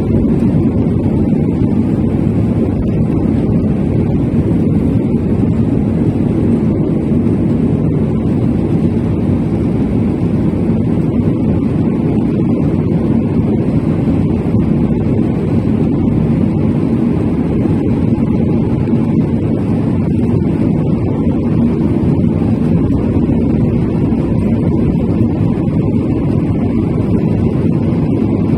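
An Airbus A319's jet engines and rushing air during takeoff, a steady loud noise, strongest in the low range, that does not change.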